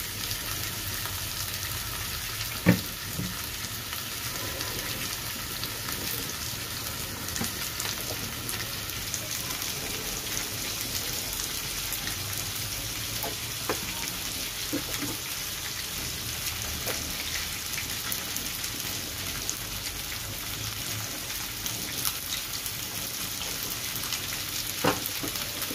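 Chicken pieces and onions sizzling steadily in hot oil in a steel wok while spices are stirred in and fried (kasha). A few sharp taps on the pan sound through the sizzle, the loudest about three seconds in, the others midway and near the end.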